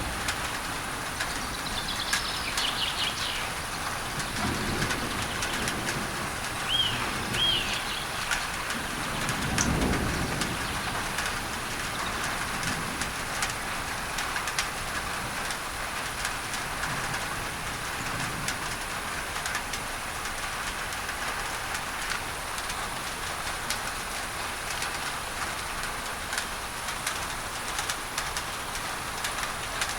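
Steady rain on a tin roof under an even hiss of added masking noise. Short bird chirps come twice in the first eight seconds, and a low rumble of thunder swells about ten seconds in.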